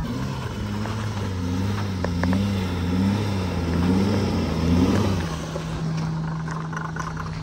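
Acura TL's engine labouring with wavering revs as the car climbs a loose gravel slope, over a rush of gravel and tyre noise. About five seconds in it settles to a steady drone.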